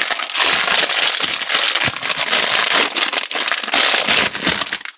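Crinkly wrapping being handled and opened to get at a slime toy: a dense, loud crackling rustle that cuts off suddenly near the end.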